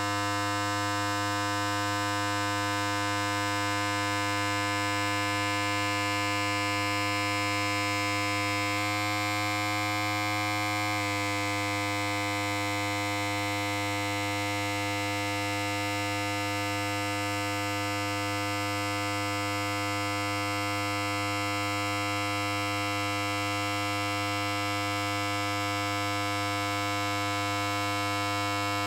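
Electric hair clipper running continuously: a steady, even mains-pitched buzz with a rich stack of overtones, the tone shifting slightly for a couple of seconds about nine seconds in.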